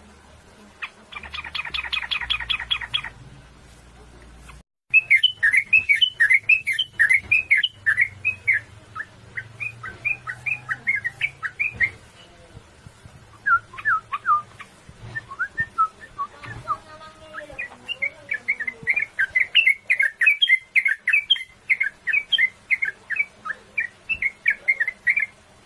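Yellow-vented bulbul (trucukan) singing a long, rapid rolling song of bubbly whistled notes, with only short breaks between the runs. A brief buzzy rattle comes in the first few seconds, before the song starts.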